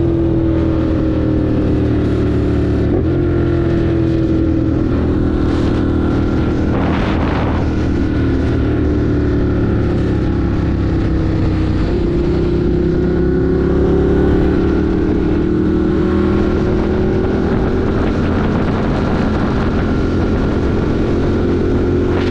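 Ducati Monster 1200 R's 1198 cc L-twin engine running under way at a fairly steady speed, heard from the rider's position. Its pitch eases down, then climbs steadily from about halfway through, with a brief rush of noise about seven seconds in.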